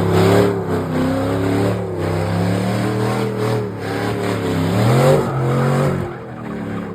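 A car engine revving hard at high rpm, its pitch climbing and dropping again and again, with a sharp rise about five seconds in before it fades.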